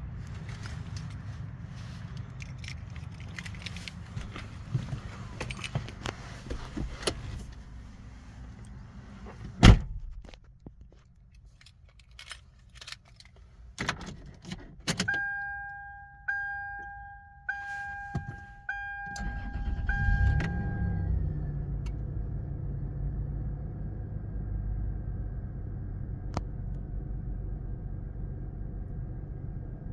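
A car door shuts with a loud thud, keys click and rattle, and a warning chime sounds about five times. Then the 2001 Toyota 4Runner's 3.4-litre V6 cranks and catches from cold, flares up briefly and settles into a steady fast idle.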